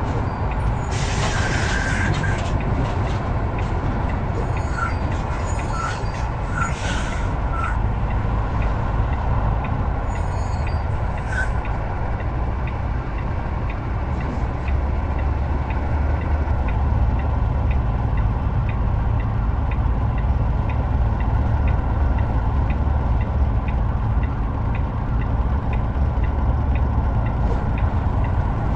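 Heavy truck on the move: steady low engine and road rumble, with a short hiss about a second in.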